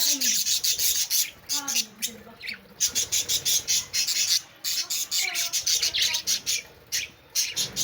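Pet lovebirds chattering: rapid runs of high-pitched chirps and squawks, broken by short pauses.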